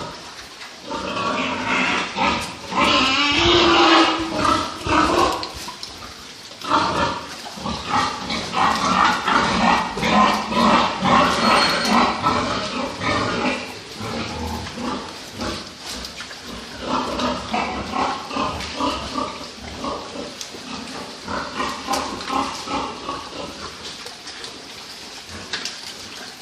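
Several pigs squealing at once in overlapping calls. The calls are loudest through the first half and thin out near the end.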